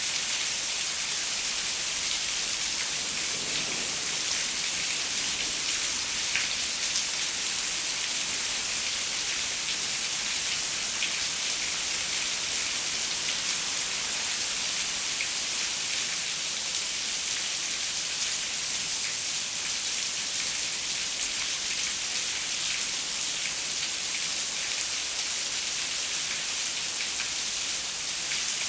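Steady rain pattering on a window, an even hiss with scattered drop ticks.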